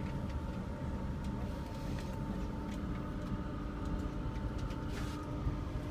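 Inside a passenger railway carriage: steady low rumble with a constant hum and scattered small clicks and rattles.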